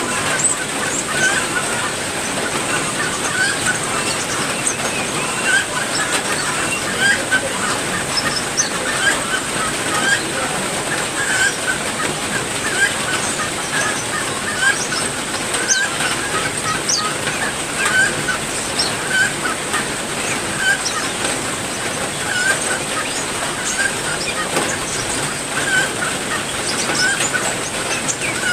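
Steady rain hiss with many small aviary birds calling over it in frequent short chirps and quick high notes.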